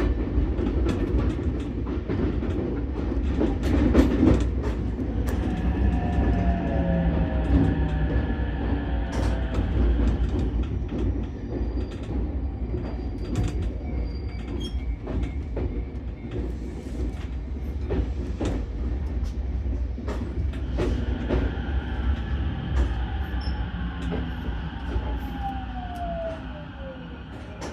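Ichibata 7000-series electric railcar running over the rails: a steady low rumble with frequent wheel-on-rail-joint clicks and light squeal. Near the end the motor whine falls in pitch and the running noise fades as the train brakes to a stop at the station.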